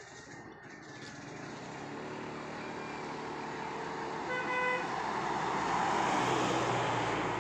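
Small 3 hp Matsumoto MOB 830 two-stroke outboard motor running under way, its drone and the wash growing louder and then easing as the boat comes close. A short horn-like toot sounds about halfway through.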